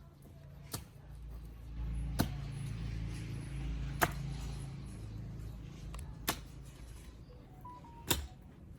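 Five sharp knocks, roughly one every one and a half to two seconds, over a low steady hum.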